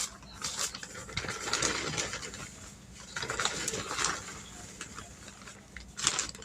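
Measuring cup scooping powdered sugar and tipping it into a mixing bowl: irregular bursts of scraping and rustling.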